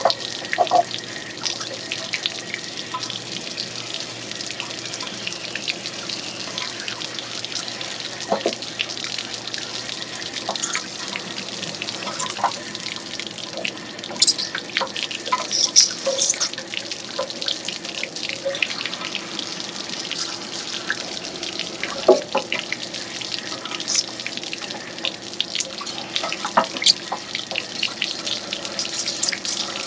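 Water from a flush wand rushing through an RV water heater tank and splashing out of the open anode rod port, a steady hiss with scattered spattering ticks, as the tank is rinsed to force out sediment from the corroding anode rod.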